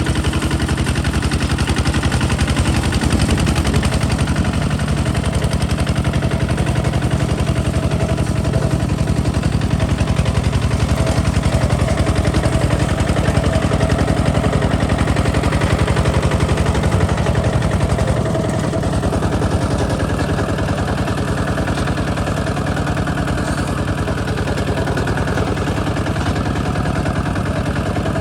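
Kubota ZT 155 DI single-cylinder diesel tractor engine running with a rapid, even chugging exhaust beat. It eases off slightly about two-thirds of the way in.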